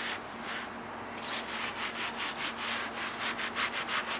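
Rag scrubbing spilled engine oil on the ground in quick back-and-forth strokes, about three or four a second, starting about a second in.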